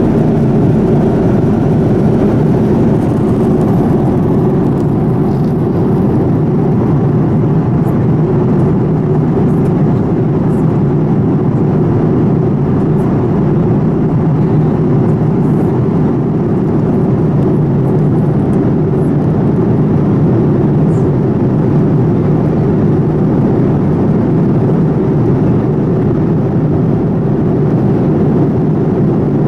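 Steady cabin noise inside a Boeing 787-9 airliner with its engines running: an even, unbroken noise that is deepest and loudest in the low range.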